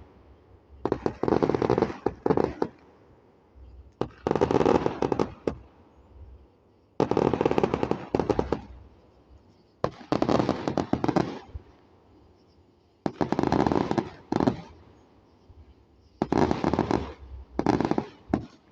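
Fireworks going off in about seven bursts of rapid crackling pops, each burst lasting one to two seconds, roughly every three seconds.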